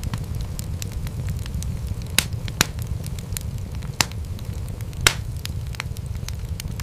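Wood fire in a fireplace crackling over a steady low rumble, with frequent small ticks and four louder pops, about two, two and a half, four and five seconds in.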